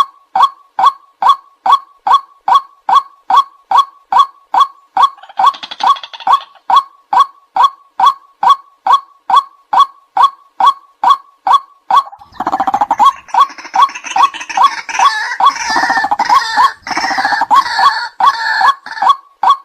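White-breasted waterhen calling: a monotonous, evenly repeated call, about three a second. Over the last third a louder, harsher chorus of croaking calls joins in, with a shorter, fainter burst of it around the five-second mark.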